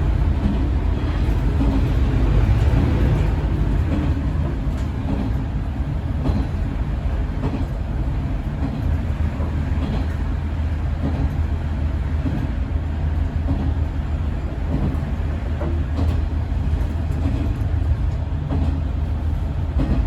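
Diesel railcar running along the line, heard from the cab: a steady low rumble of engine and wheels on rail, with a few faint clicks.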